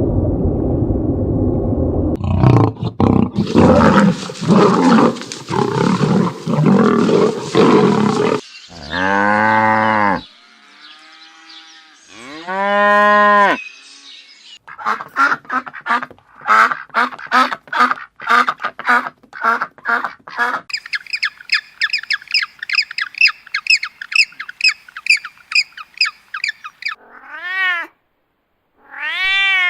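A string of different animal calls, one after another: a low rumbling call, a harsh rhythmic stretch, two long drawn-out pitched calls, rapid repeated short calls, a fast high trill, and near the end cat meows.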